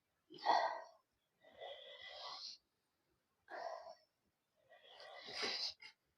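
A person eating, breathing noisily through mouth and nose: four short bursts of breaths, sniffs and mouth sounds between mouthfuls.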